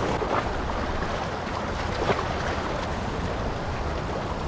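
Steady wash of moving river water with wind noise on the microphone.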